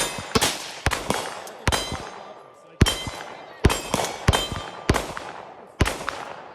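Gunfire at a shooting range: about nine shots at irregular intervals, each sharp crack followed by a long echoing tail.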